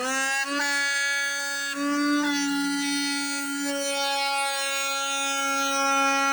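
Handheld vacuum cleaner's motor running with a loud, siren-like whine. It holds one steady pitch, with a few small jumps in the first two seconds or so.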